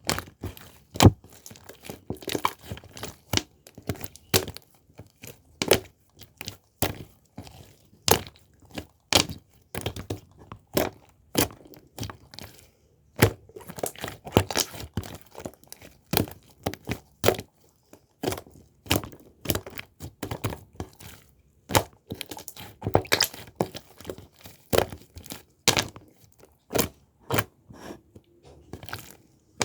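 Irregular sharp clicks and knocks, roughly one to three a second, with faint crackling between them, like objects being handled or tapped.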